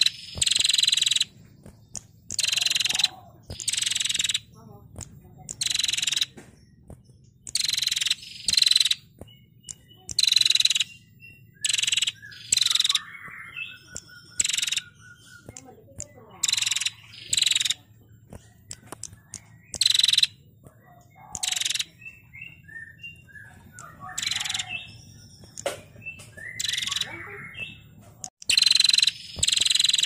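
Female prenjak (prinia) calling in a run of short, loud, rapid rattling trills, each about half a second to a second long and coming every second or two, with one brief pause near the middle. A faint steady low hum runs underneath.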